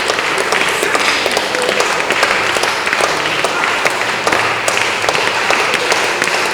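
Congregation clapping their hands steadily together in prayer, a dense, continuous mass of overlapping claps.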